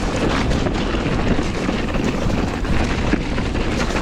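Riding noise from a mountain bike on a muddy trail: a steady rush of wind on the microphone and tyre noise, with frequent small knocks and rattles from the bike.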